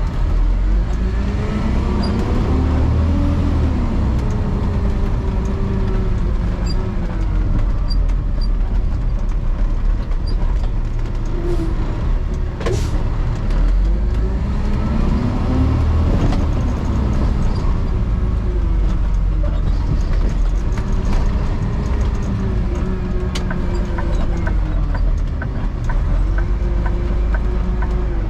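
Motor vehicle driving, with a steady low rumble and engine pitch that rises as it speeds up and falls as it slows down, twice: peaking about three seconds in and again around sixteen seconds in.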